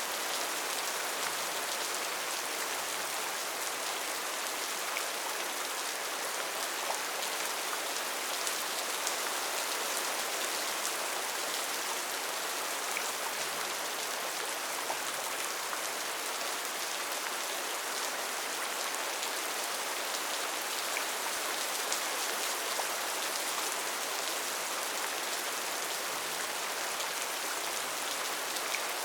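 Steady rain falling in a rainforest, an even hiss with scattered individual drops ticking on leaves and surfaces.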